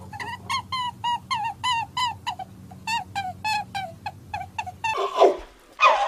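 Rapid string of short, high squeaks from a small animal, about four a second, over a low steady hum. Near the end, louder rough calls break in: an elephant beginning to trumpet.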